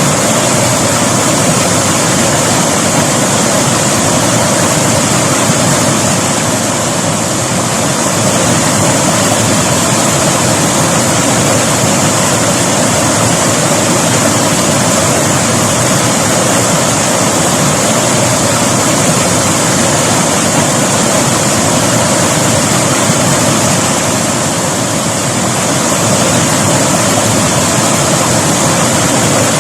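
Mountain river water rushing and splashing over rocks, a loud steady roar of flowing water with slight swells and dips.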